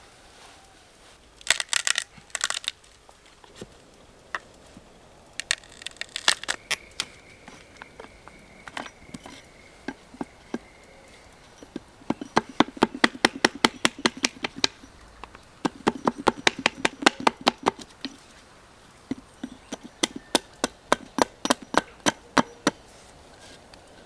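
Wood being worked: sharp cracks and knocks in quick runs of several a second, in clusters with short pauses between.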